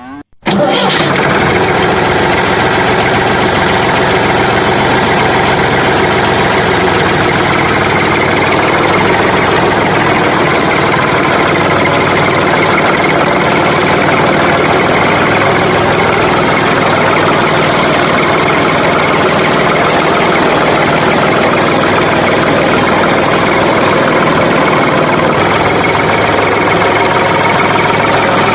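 Engine running steadily, starting suddenly about half a second in and holding at an even level.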